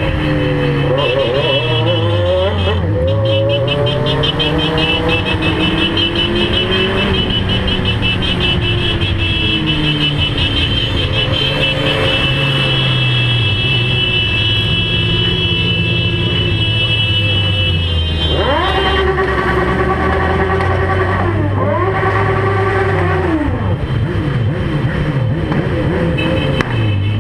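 Motorcycle engines running and revving, their pitch rising and falling. Two long revs climb and drop back in the last third.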